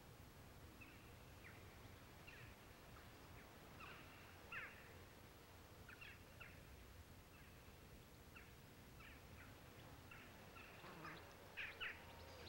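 Faint bird chirps: short, quick calls repeated at irregular intervals, a few slightly louder near the end, over a low background rumble.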